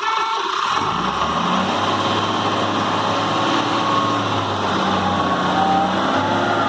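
Heavy vehicle's diesel engine revving up about a second in and then running hard under load, as the mired truck is being pulled free.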